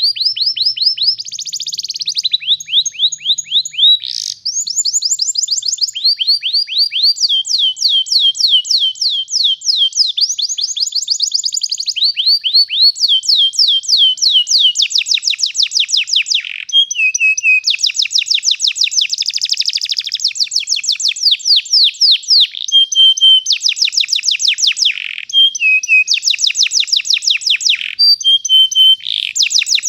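Domestic canary singing a long, unbroken rolling song: fast trills of repeated notes, each trill giving way to a new one every second or two.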